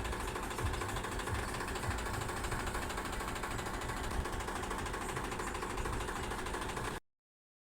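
Tractor engine running steadily with a low, rough rumble; the sound cuts off abruptly near the end.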